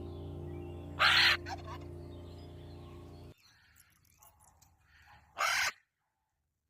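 Chicken calling in short, loud squawks, one about a second in and another near the end, over background music that cuts off about three seconds in.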